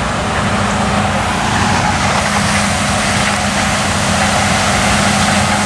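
Combine harvester's engine running, loud and steady, a continuous drone with a constant low hum.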